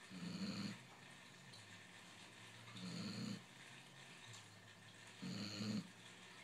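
Basset hound snoring: three short snores, each about half a second long, coming roughly every two and a half seconds.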